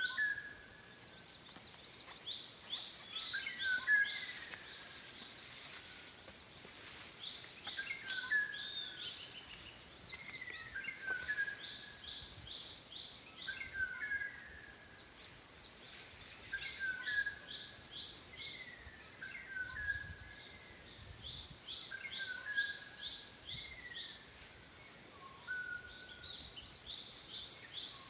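Songbirds singing over a steady faint background, repeating the same song every few seconds: a few low slurred whistles and a quick run of high notes.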